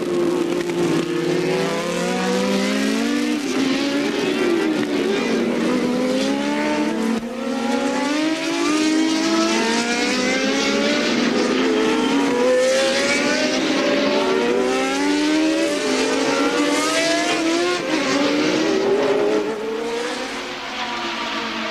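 Early-1980s Formula One cars at racing speed: several high-revving engines overlap, each rising in pitch and dropping back at every upshift as the cars accelerate past. The sound eases a little near the end.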